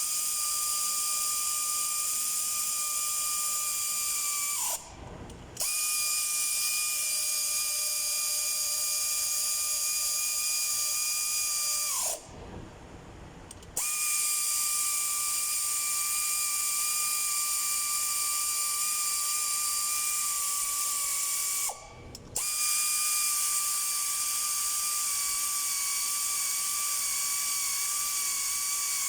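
A power ratchet's motor running with a high, steady whine while driving down the crankshaft main bearing cap bolts, stopping briefly three times, its pitch dropping each time it is let off.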